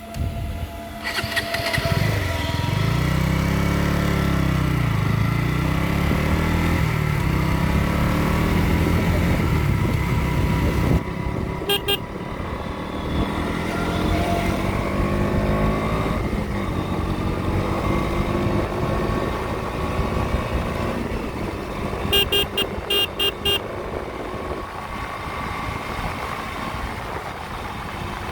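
KTM motorcycle engine under way, revving up and down through the first ten seconds, then running more steadily. A horn beeps in short taps twice: a couple of beeps about twelve seconds in and a quick string of about five beeps about three-quarters of the way through.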